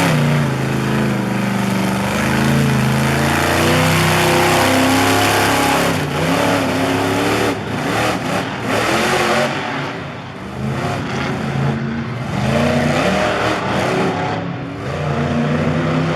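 Monster truck engine revving hard, its pitch rising and falling again and again over a loud rush of noise, easing off briefly about ten seconds in.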